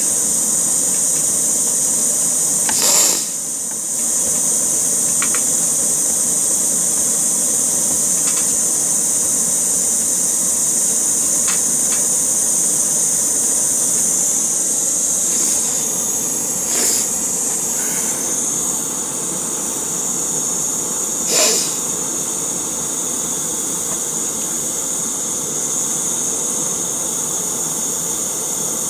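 Steady loud hiss of a gas torch burning, heating the tool used to melt and weld the cracked plastic, with a few brief knocks about three, seventeen and twenty-one seconds in.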